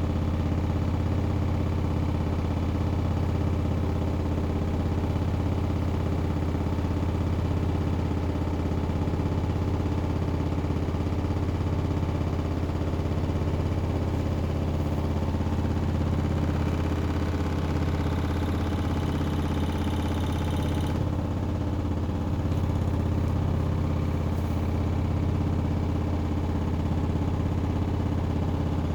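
Hoover Axi 9kg washing machine spinning steadily at speed, its drive motor giving a constant low hum with steady whining tones above it. A higher rushing sound joins for a few seconds past the middle and cuts off suddenly.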